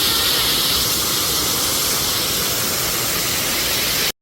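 Steady, loud rushing hiss of falling water that cuts off abruptly just before the end.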